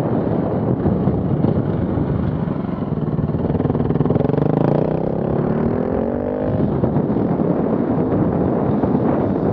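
Off-road vehicle engine running loud under load, its pitch climbing steadily for a few seconds in the middle as it revs up, then dropping away.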